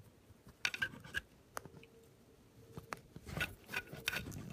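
Short bouts of scratching and scraping, about a second in and again near the end, with a single sharp click between them.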